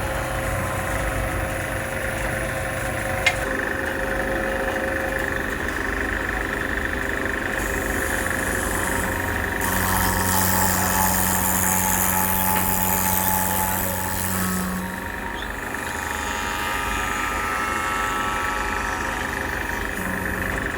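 Woodworking machinery running steadily, louder for a few seconds in the middle, as when the tool is cutting, with a single sharp click about three seconds in.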